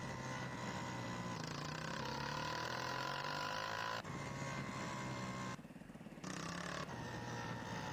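Honda CG 160 Titan's single-cylinder four-stroke engine running while the motorcycle is ridden, its pitch shifting slowly with the throttle, with wind noise. The engine sound briefly drops away about five and a half seconds in, then picks up again.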